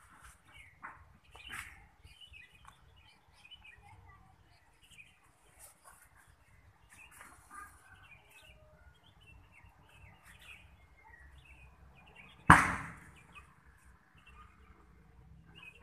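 Faint birds chirping here and there, with one sudden loud sound about twelve seconds in that fades over about a second.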